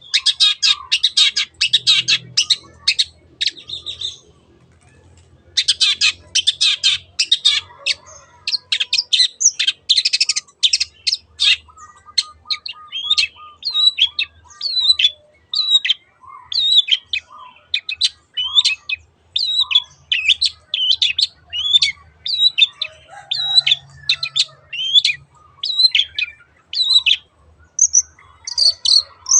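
Long-tailed shrike (cendet) singing. Fast, scratchy chattering runs fill the first half, broken by a pause of about a second and a half around four seconds in. Then comes a long string of separate sharp repeated notes, about two a second.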